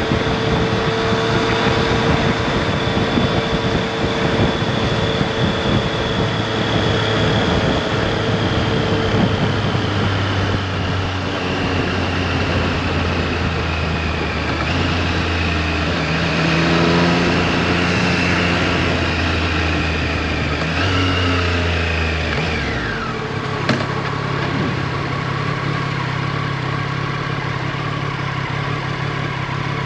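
Triumph Street Triple RS three-cylinder engine and heavy wind rush over the microphone at cruising speed. About 21 seconds in the engine note falls as the bike slows, and from about 24 seconds it idles steadily.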